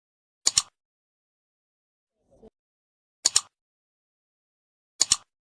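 Three sharp double clicks, each a pair of quick snaps, about two seconds apart, with dead silence between them and a faint low thump about two seconds in.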